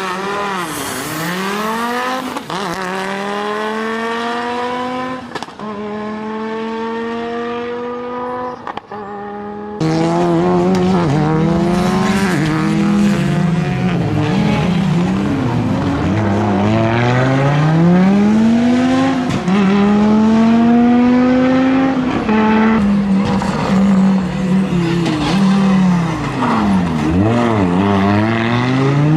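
Audi Quattro S1 rally car's turbocharged five-cylinder engine driven hard on a stage, its revs climbing and dropping again and again through gear changes and lifts for corners. About ten seconds in the engine gets suddenly louder.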